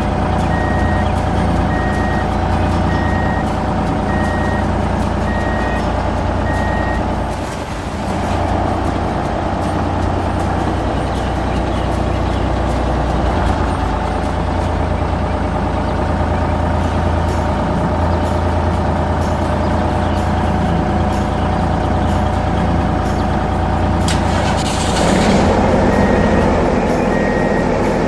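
Heavy truck engine running with a steady low rumble, with a reversing beeper sounding repeated evenly spaced beeps for the first several seconds and again near the end. About 24 seconds in there is a short burst of hissing noise.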